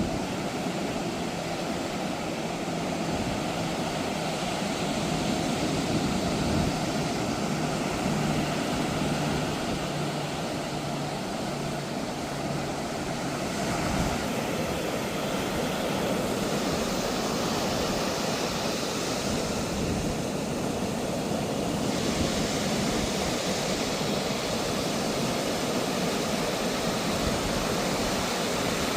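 Ocean surf breaking and washing on a sandy beach, a steady rushing noise that swells for several seconds around the middle. A low steady hum runs under it through about the first half and then fades.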